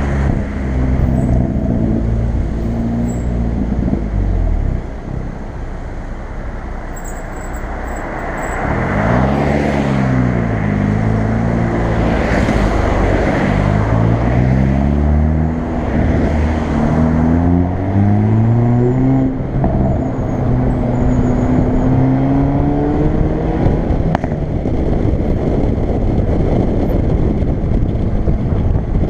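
Hyundai i30 N's turbocharged 2.0-litre four-cylinder engine and exhaust accelerating through the gears. The pitch rises and drops back again and again, with sharp cracks around the gear changes. After a steady low drone at first, it settles near the end into even road noise.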